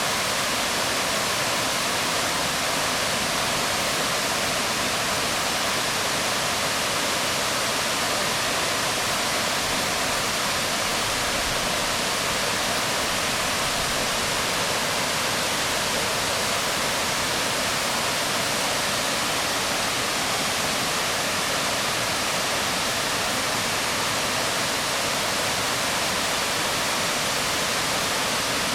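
Waterfall falling onto rocks: a steady, even rush of splashing water that does not change.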